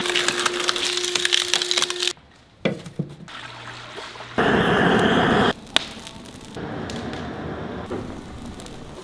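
Firewood crackling and splintering, in several short, abruptly cut segments, with a loud rushing noise lasting about a second near the middle.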